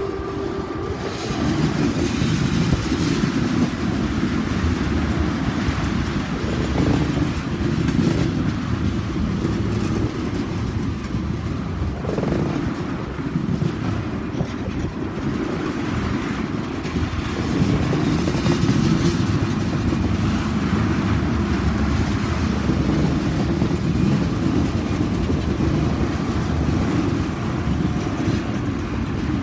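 Freight train rolling past: a steady rumble and rattle of wheels on rail.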